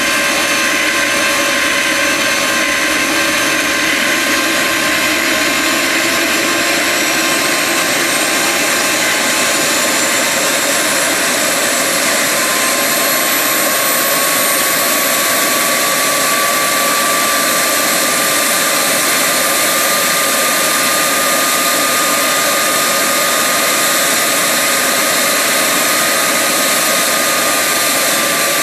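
Homemade turbocharger jet engine running loudly on its test rig: a steady roar with a turbine whine that climbs in pitch over several seconds as the engine spools up, holds high, then sags slightly near the end.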